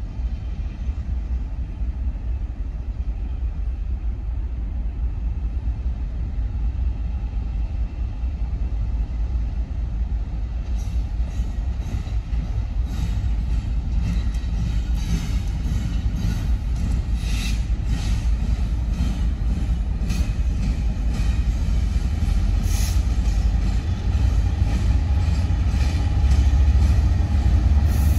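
Train drawing near and passing close by: a heavy low rumble that grows steadily louder, with quick regular clicking of wheels over rail joints from about halfway through.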